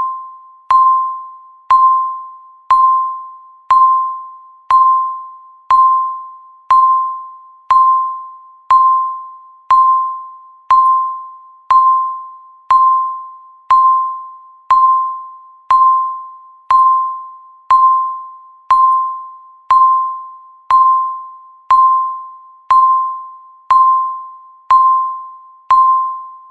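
Countdown timer's electronic tick: one bell-like note of the same mid pitch struck once a second, each sharp strike fading away before the next.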